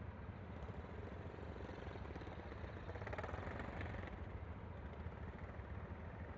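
Yamaha Aerox V3 scooter's 155 cc single-cylinder engine running steadily with a low rumble. A louder swell of noise rises about a second and a half in and fades about four seconds in.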